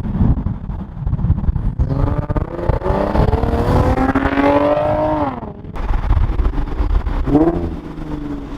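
Infiniti G37's 3.7-litre V6 running through a muffler-deleted catback exhaust with a Y-pipe. It pulls hard, its pitch climbing steadily for about three seconds, then drops off suddenly near the middle. Near the end it gives two short revs.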